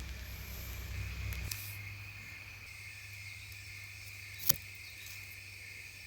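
Crickets chirring in a steady high drone, with a low rumble that stops about a second and a half in and a single sharp click a little after four seconds.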